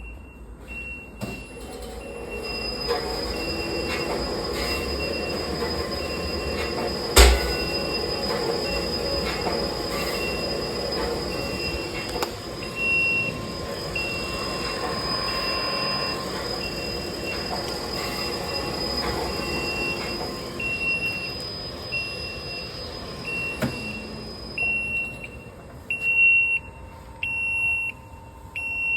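Steam-heated agitator mixing tank running on test, with a steady high whine over a machine hum and an electronic beeper sounding about once a second. A single sharp knock comes about seven seconds in; near the end the whine stops and the beeps grow louder.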